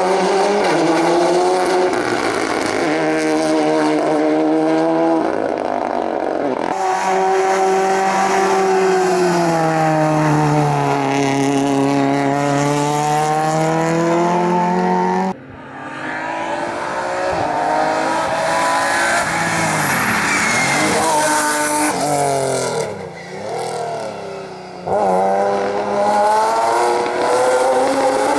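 Rally cars driven hard on a stage, one after another. Their engines rev up and fall back again and again through gear changes and braking.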